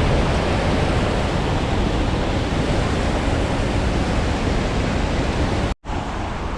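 Steady rush of flowing creek water, with a low rumble of wind on the microphone. It cuts out abruptly for a moment near the end, then resumes a little quieter.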